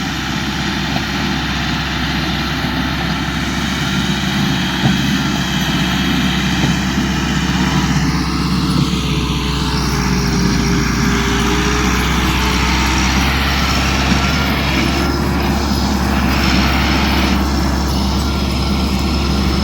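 Massey Ferguson 385 tractor's diesel engine running steadily, a constant low drone.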